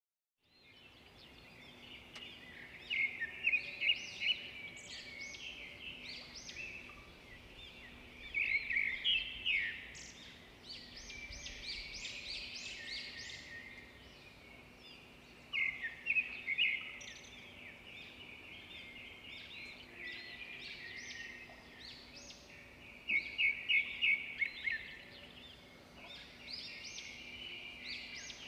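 Songbirds chirping and singing, with a phrase of quick repeated high notes about every five to seven seconds, over a faint steady low hum.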